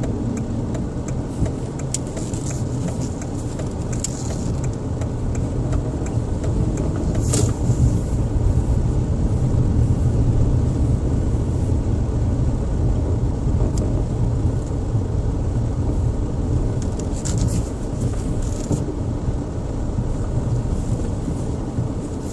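Car engine and tyre noise heard from inside the car as it drives slowly, a steady low rumble with a few short clicks or knocks.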